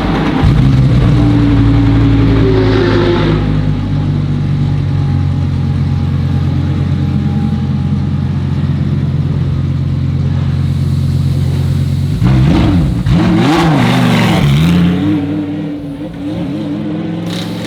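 Lamborghini Huracán Super Trofeo EVO2 race car's V10 running at a steady engine speed, then revved up and down in several quick blips about twelve seconds in, before settling lower and quieter.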